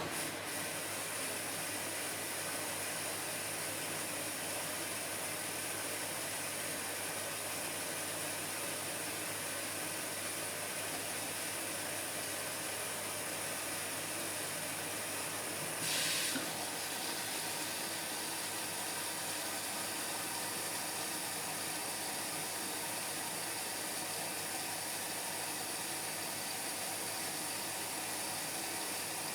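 Indesit MyTime washing machine filling with water early in its Cotton 60 cycle: the inlet valve opens suddenly and water hisses in steadily, with a brief louder surge about 16 seconds in.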